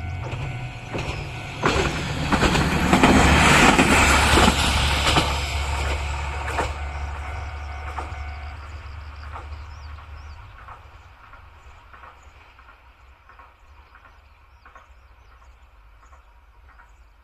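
Diesel railcar passing over a level crossing: engine rumble and wheels clacking over rail joints, loudest about three to five seconds in, then fading away. The crossing's warning bell rings steadily and stops about eight and a half seconds in.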